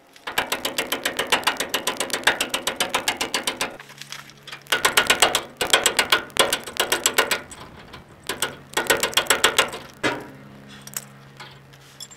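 A hand ratchet being worked in three runs of rapid, even clicking, each lasting a few seconds, with short pauses between and a few stray clicks near the end.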